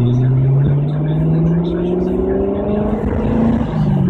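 2014 Corvette C7's 6.2-litre LT1 V8 pulling under acceleration, heard from inside the cabin. The engine note rises steadily in pitch, then dips briefly near the end.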